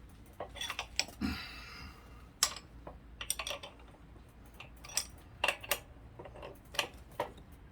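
Irregular metallic clicks and taps of a 9/16 wrench working on a bicycle pedal and crank arm as the pedal is being loosened, with a short scrape a little after a second in.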